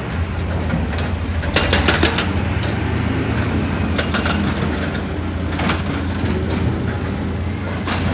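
Heavy excavator's diesel engine running steadily under load, with irregular clanks and scrapes of rock and metal on rock.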